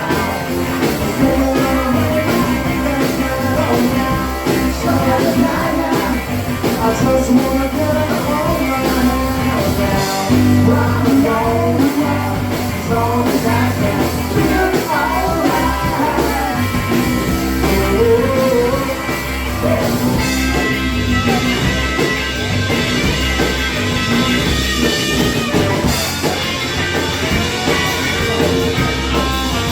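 Rock and roll band playing, with electric guitar over a steady bass and drum beat.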